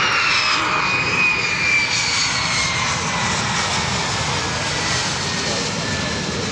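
A fighter jet's engine roar as the jet passes and moves away, with a high whine that slowly falls in pitch. The sound eases off near the end.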